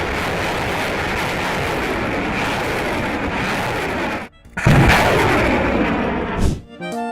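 A loud, steady rushing noise that cuts off about four seconds in, followed by a single loud blast-like burst that dies away over about two seconds.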